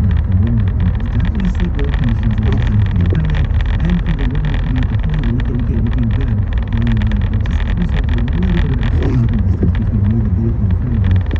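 Car driving on the road: a steady low rumble of engine and road noise, with many faint ticks above it.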